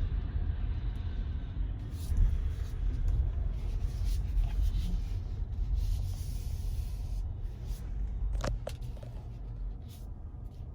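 Low, steady rumble inside the cabin of an electric Tesla Model Y rolling slowly, mostly road and tyre noise, with a few light clicks and one sharper click about eight and a half seconds in.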